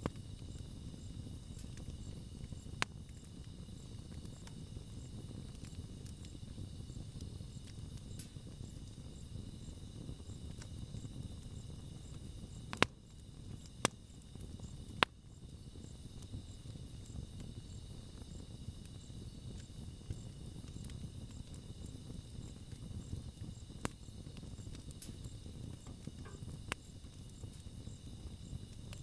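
Wood campfire burning with a low steady rumble and a few sharp pops and crackles, three loud ones close together near the middle. Insects trill steadily in the background.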